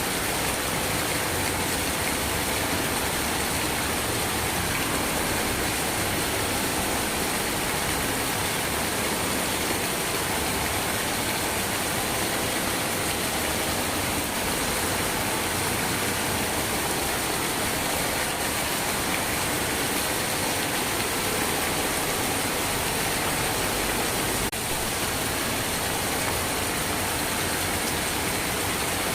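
Steady rain falling, a dense, even hiss with no let-up, with one very brief dip about 24 seconds in.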